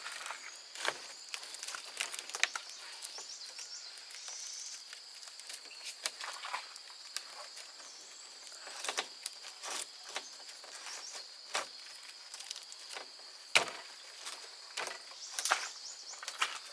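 Scattered snaps and knocks of wood and twigs at irregular intervals, one much sharper crack about three-quarters of the way through, over a steady high-pitched insect drone.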